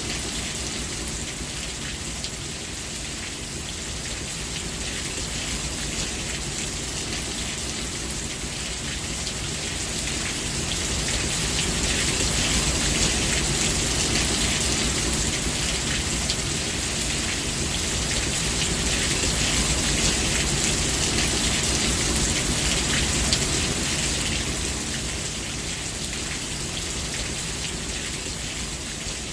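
Steady rain falling: a dense hiss of many small drop impacts that swells somewhat louder through the middle and eases again near the end.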